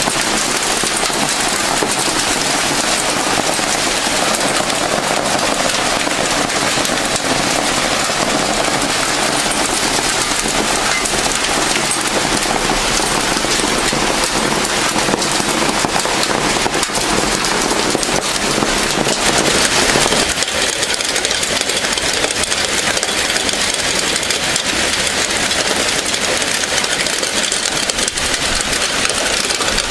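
Heavy rain pouring down in a dense, steady hiss of drops. About twenty seconds in, the sound loses its lower part and turns thinner and higher.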